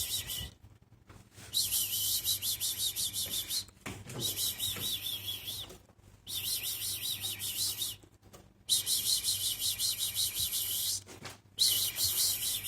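A small caged yellow pet bird chirping in fast, high trilled bursts of about two seconds each, repeated five or six times with short pauses between.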